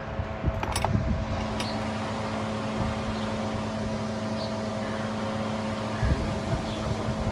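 Steady mechanical hum, with a few sharp metallic clicks in the first two seconds and a knock about six seconds in.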